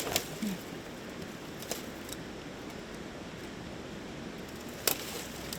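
Steady outdoor hiss of open canyon air, with a short low coo just after the start and a few sharp clicks, the loudest near the end.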